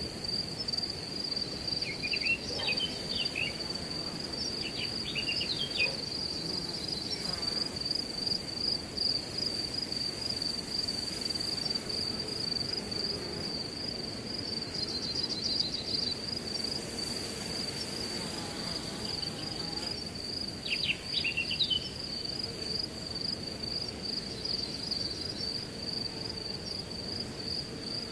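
Steady, high-pitched chorus of crickets over a low rush of wind through grass. Short bursts of bird chirps come in about two seconds in, around five seconds, and again around twenty-one seconds.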